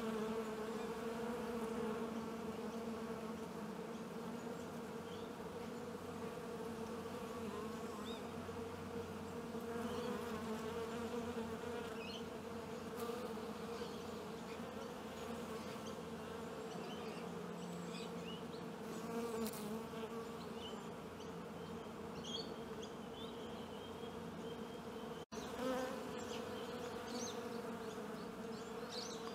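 A mass of honeybees buzzing: a steady, even humming drone that holds one pitch, cut off for an instant once near the end.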